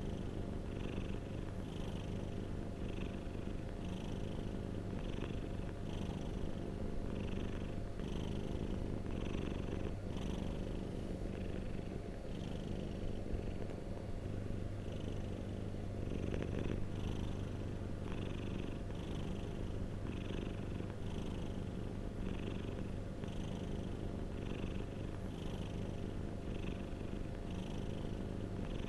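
Domestic cat purring continuously, a low rumble with a steady rhythm that pulses about once a second.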